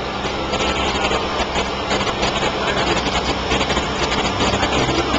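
Boat engine running steadily, a constant low hum heard from on board the cruising houseboat.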